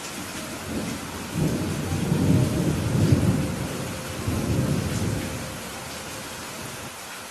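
Steady rain hiss with a roll of thunder that swells in about a second in, rumbles deep and low for around four seconds, and fades back into the rain.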